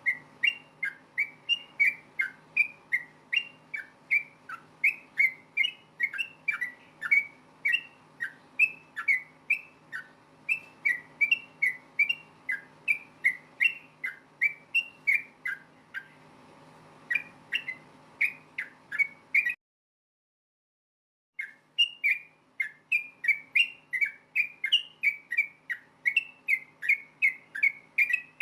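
Yellow-vented bulbul (trucukan) singing in a rapid, unbroken run of short bubbly whistled notes, two or three a second, over a faint steady hum. The song cuts out completely for about two seconds past the middle, then resumes.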